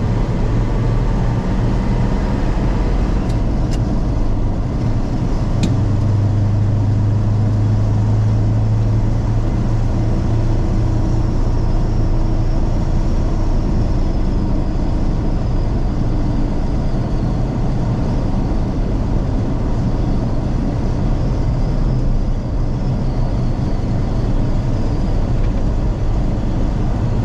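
1974 Ford F-100's 390 big-block V8 pulling steadily along the road, heard from inside the cab as a constant low drone with road noise. A faint high wind whistle comes in about a third of the way through.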